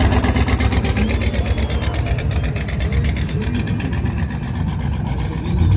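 Twin-turbo limo's engine running with a deep, rapidly pulsing exhaust rumble, easing off a little about two seconds in.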